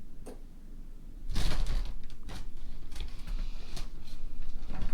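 Handling a bag of costume brooches and pins: a brief rustle about a second and a half in, and several light clicks of metal brooches knocking together.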